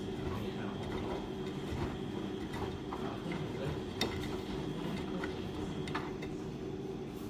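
Beko WS832425S washing machine running its pre-wash: a steady motor hum as the drum tumbles the load, with scattered light clicks and a sharper knock about four seconds in.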